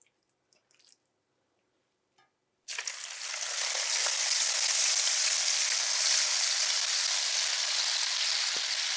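Chicken fillets frying in hot ghee in a pan, a steady sizzle that starts suddenly a little under three seconds in after near silence.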